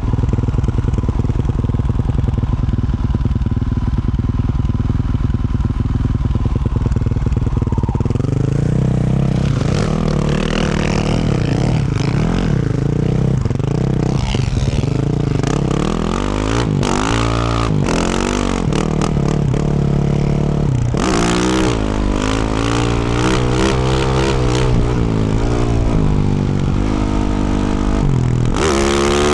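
2024 Yamaha YZ450F's single-cylinder four-stroke engine through a Yoshimura RS-12 exhaust, running steadily at first, then revving up and down repeatedly under throttle from about eight seconds in. Two short bursts of rushing noise come about two-thirds of the way through and near the end.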